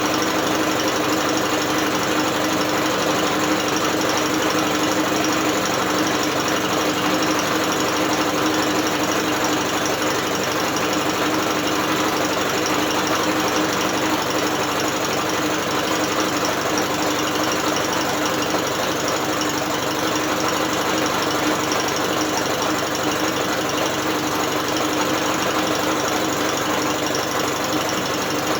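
British Seagull two-stroke outboard motor turned over by an electric drill, its mechanism and the drill running together at one steady speed with no change.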